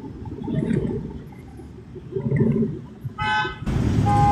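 A car horn honks briefly about three seconds in and again more faintly near the end, over steady vehicle and traffic noise that gets louder just after the first honk.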